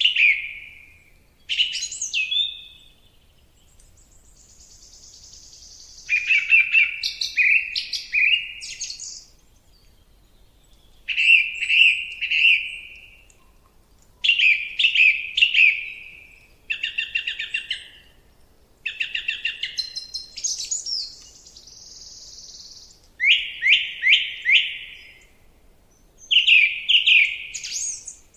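Songbirds singing in short, clear phrases, each a second or two long, with pauses between. Some phrases are rapid trills, and now and then a higher, thinner phrase comes in.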